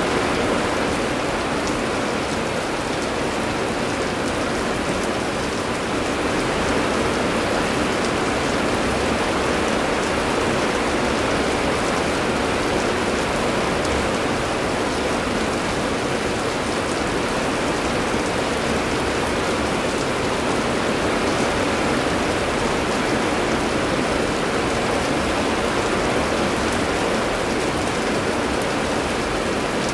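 Heavy rain falling steadily, an even, unbroken wash of sound.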